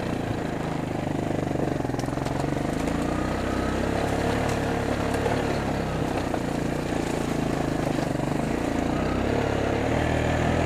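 Four-wheeler (ATV) engine running steadily as it is ridden, its pitch shifting a little with the throttle and rising slightly near the end.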